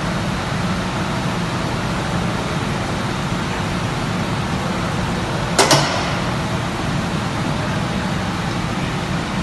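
Steady hum and noise of casting-plant machinery, with a single sharp metallic clank about five and a half seconds in.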